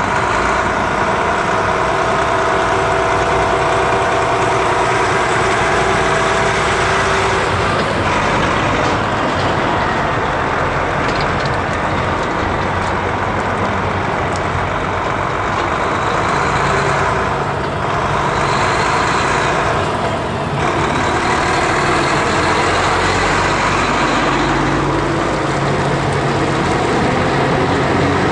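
Heavy trucks' diesel engines running as the trucks drive past, the engine note shifting as they go by.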